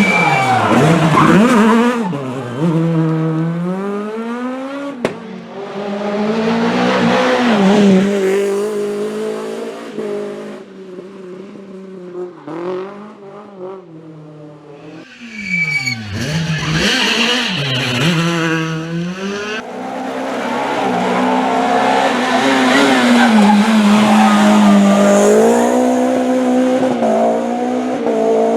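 Rally car engines revving hard on a special stage. The pitch climbs and drops through gear changes, falls away sharply twice as the cars brake, then pulls back up to high revs.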